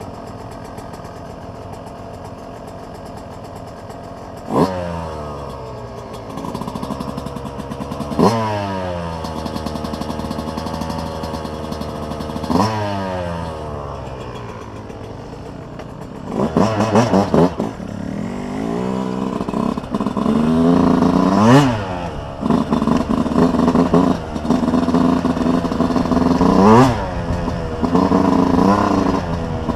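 Dirt bike engine running and being revved by a beginner rider, its pitch jumping up and falling away in sharp blips a few times, then changing pitch more often as the bike gets under way.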